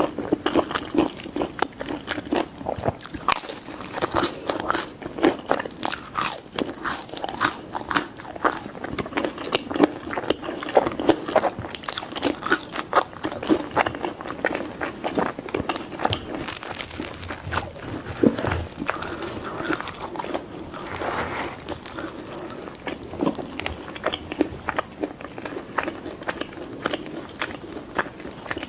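Close-miked eating of pizza: biting and chewing with crunchy mouth sounds, a dense irregular run of clicks.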